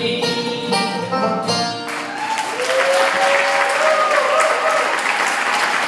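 A bluegrass-style band with banjo and guitar plays the song's closing notes, stopping about two seconds in. Audience applause follows.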